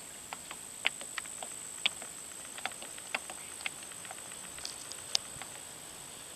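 Irregular light clicks and ticks, two or three a second, with one sharper click about five seconds in, over a faint steady hiss and a thin high steady tone.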